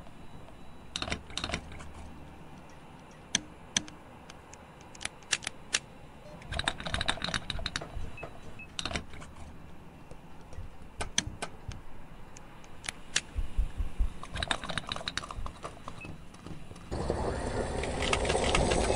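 Scattered clicks and rattles of small plastic parts being handled, as the nozzle of a homemade model fuel pump is taken down and fitted into a toy loader's filler pipe. About two seconds before the end a steady whirring noise starts: the model pump's small motor running.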